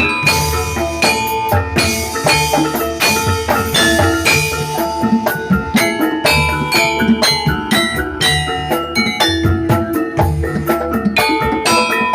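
Javanese gamelan music for jathilan: tuned bronze metallophones struck in a busy, steady pattern over kendang drum beats, loud and continuous.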